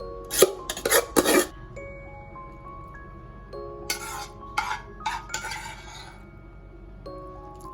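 Soft background music with short bursts of kitchen handling noise, utensils scraping and clinking against dishes: a cluster about half a second in and another about four to six seconds in.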